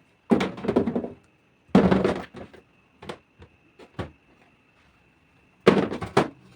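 Containers and produce being handled and set down inside a refrigerator: three bursts of clattering knocks with a few single knocks in between.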